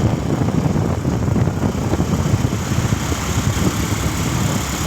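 Modified Mahindra Thar's engine idling, a steady low rumble.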